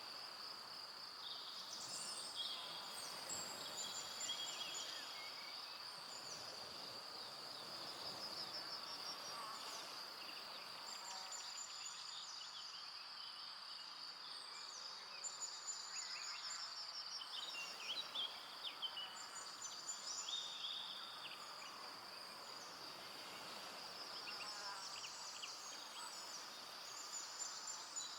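Forest evening ambience: a steady high insect trill runs throughout, with many short bird chirps and whistles coming and going over it, busiest around the middle and near the end.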